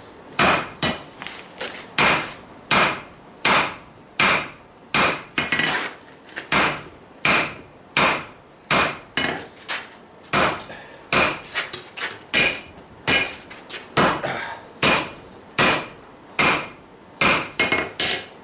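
Hand hammer forging hot steel on a Vulcan 90-pound cast-iron anvil: steady blows about one and a half a second, each ringing briefly, with quick double and triple taps in places.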